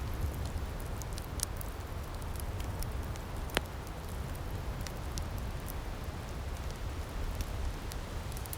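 Outdoor firepit crackling: a steady low rumble with scattered sharp pops and snaps, the loudest about three and a half seconds in.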